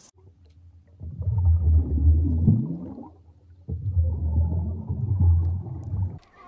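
An animal's deep, low-pitched call given twice, each lasting about two seconds.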